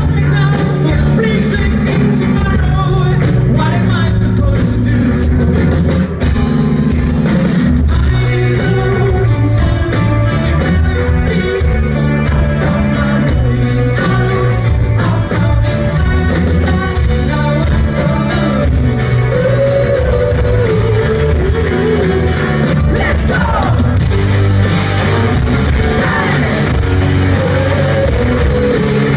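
Live rock band playing, with loud distorted guitars, bass, drums and a lead vocal singing, heard through a phone microphone in a large hall.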